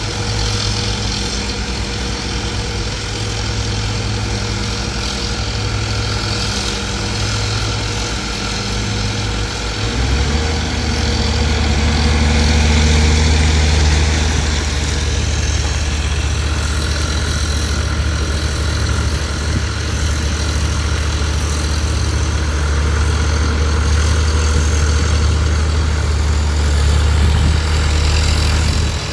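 Heavy diesel engine of a construction machine running steadily. About ten seconds in, its note drops lower and grows louder, then holds.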